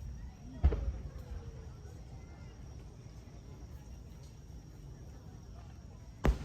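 Aerial fireworks shells bursting: a sharp boom less than a second in whose rumble fades away, then another sharp boom near the end.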